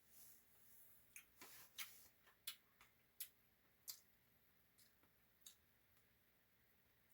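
Near silence with faint eating sounds: a dozen or so small sharp clicks at irregular spacing, mostly in the first four seconds.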